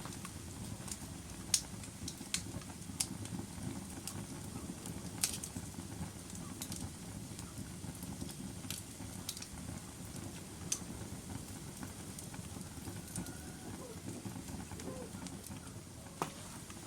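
Wood logs burning in a fireplace: a steady low rush of flame with sharp crackles and pops scattered at irregular intervals, the loudest pop about a second and a half in.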